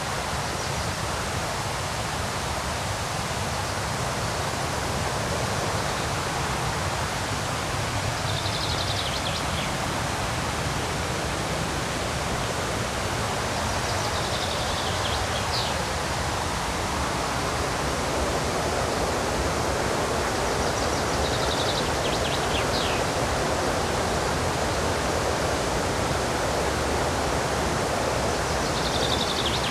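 Steady rush of river rapids, with a songbird singing a short descending phrase four times, about every six or seven seconds.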